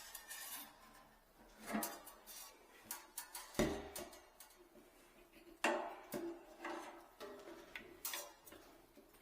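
Irregular metallic knocks and clanks of hand work on a kitchen sink's metal parts and fittings, a few of them ringing briefly.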